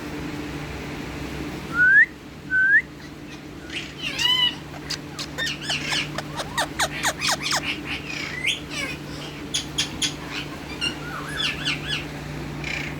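Pet Psittacula parakeet whistling two short rising notes, then giving a call and a fast run of short chirps and clicks.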